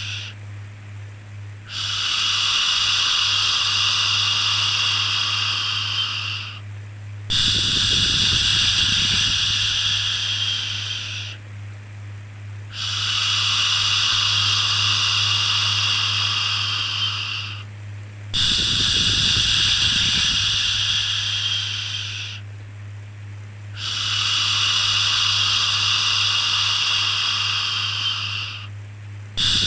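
Long 'shhh' shushing sounds, repeated over and over: each shush lasts about four to five seconds, with a short pause before the next one begins, about every five and a half seconds. A steady low hum runs underneath.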